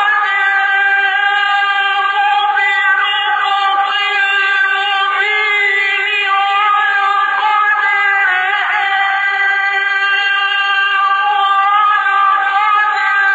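A male Quran reciter's voice holding one long, high, melismatic note in the elongated mujawwad style, with small ornamental wavers in pitch.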